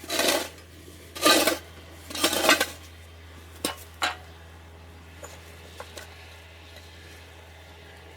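Three rough scraping strokes of hard, gritty material, followed by two sharp knocks and a few faint ticks.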